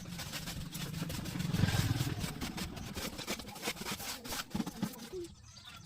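An engine running, rising briefly about a second and a half in, with scattered clicks and knocks over it.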